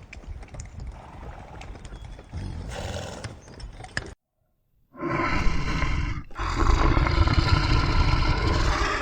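A quiet stretch with scattered clicks, a short break of dead silence a little past four seconds, then a loud, deep roar from a large wild animal that carries on to the end, with a short gap near six seconds.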